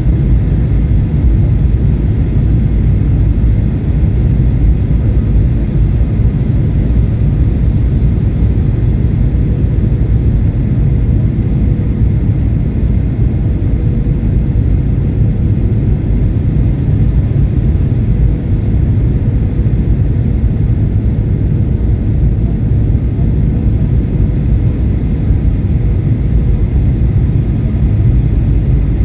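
Steady low drone of a jet airliner in flight, engine and airflow noise heard from inside the passenger cabin, with a faint steady tone over it.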